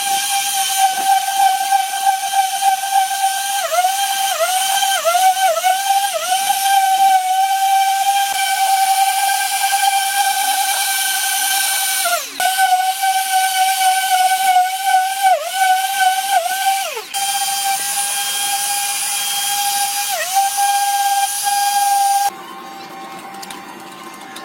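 Electric power tool running at high speed with a steady high-pitched whine, its pitch dipping briefly again and again as it is pressed into the work. The whine breaks off abruptly a few times and gives way to a quieter, different sound near the end.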